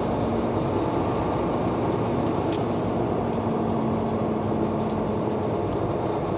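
Semi-truck's diesel engine running steadily at low speed, heard from inside the cab, with a steady hum and a brief hiss about two and a half seconds in.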